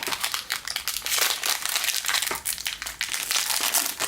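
Foil wrapper of a baseball card pack crinkling as it is handled and opened, with rapid, irregular crackles throughout.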